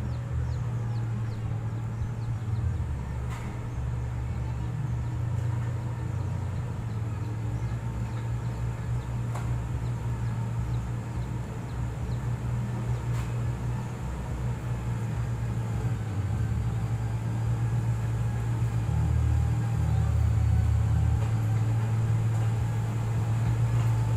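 Heavy road-equipment engine running steadily, a low drone that grows somewhat louder in the last few seconds, with a few faint clicks.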